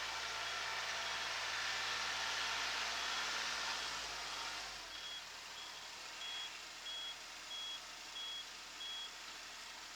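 Kubota SL28H compact tractor running with its reversing buzzer beeping, short high beeps about every 0.6 seconds. About five seconds in, the engine's low hum drops away while the beeping carries on and grows louder.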